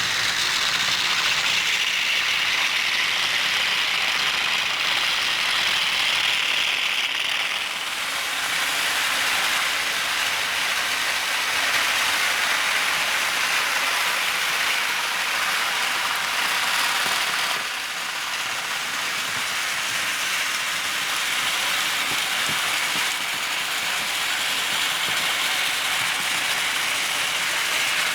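Several small model trains running around a layout, their motors and wheels on the track making a steady whirring clatter.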